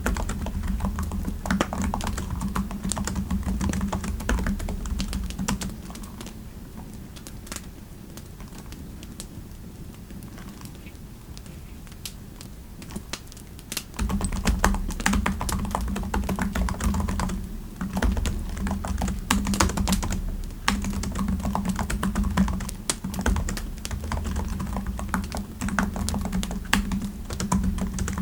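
Typing on a computer keyboard: a fast, dense run of key clicks, with a lull from about 6 to 14 seconds in that has only a few scattered soft clicks, then steady typing again.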